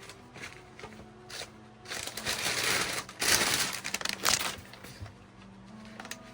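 Sheets of craft paper rustling and crinkling as they are handled and shuffled through, loudest for a couple of seconds in the middle, over soft background music.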